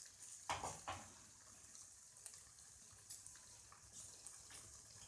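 Chowmein noodles sizzling faintly and steadily in a pan on high heat, with a couple of spatula knocks and scrapes against the pan about half a second in and small clicks after.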